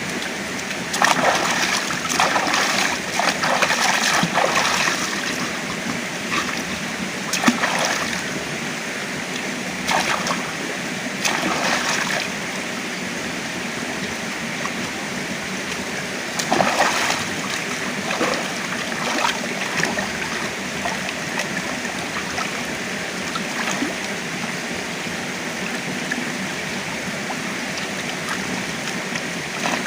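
A steady rush of water, like rain or a stream, with irregular splashes and sharp clicks, several in the first few seconds and a few single ones later, before it settles into an even rush for the second half.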